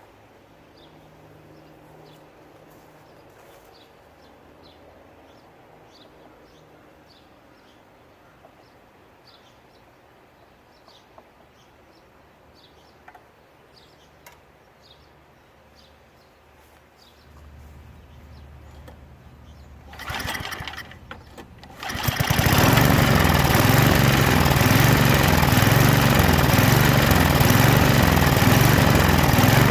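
Craftsman snowblower's small engine, with faint bird chirps in the quiet at first; about 20 seconds in it sputters briefly, then just after catches and runs steadily and loud with an even pulse. The engine had been seized and now starts and keeps running.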